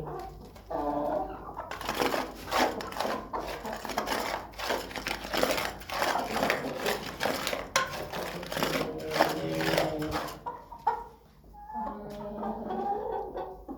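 Chicken feed being stirred with the powdered supplement, a long rustling scrape through the middle of the clip. Chickens cluck before and after it.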